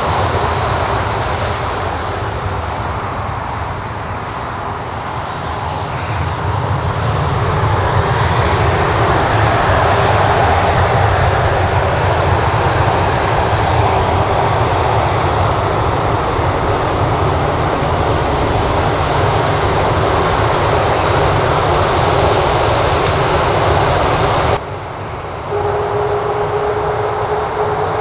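Aircraft engines running loud and steady. The sound drops and changes abruptly about three-quarters of the way through, after which a steady whine is heard.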